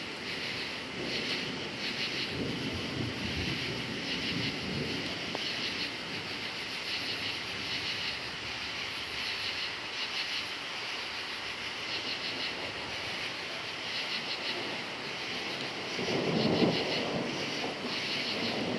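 Crickets chirping in a steady pulsing chorus, with distant thunder rumbling twice: softly about two seconds in and louder near the end.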